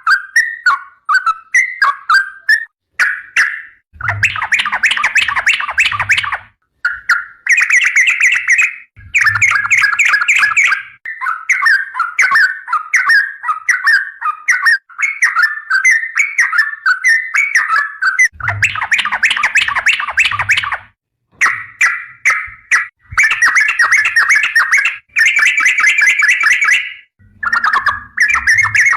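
Yellow-vented bulbul (trucukan) singing loud, rapid, bubbly warbling phrases almost without pause, with a few short breaks between bursts of song.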